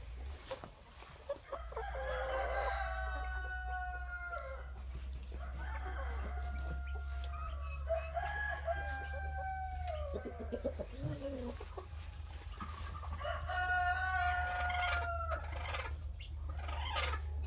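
Roosters crowing three times, each a long drawn call, with hens clucking between, over a steady low hum.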